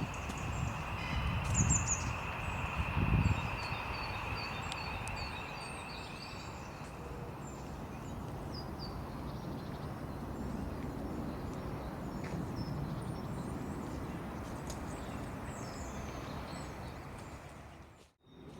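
Small birds chirping and singing over a steady outdoor hiss, with a high, continuous trill for the first several seconds and a few low rumbles in the first three seconds. The sound dips out briefly near the end.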